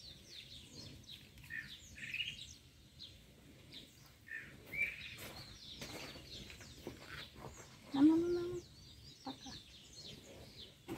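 Small birds chirping over and over in short, quick notes. There is a brief low hum about eight seconds in.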